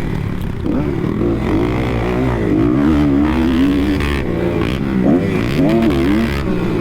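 Kawasaki KX250 motocross bike engine revving up and down as the throttle is opened and closed, its pitch climbing and dropping several times.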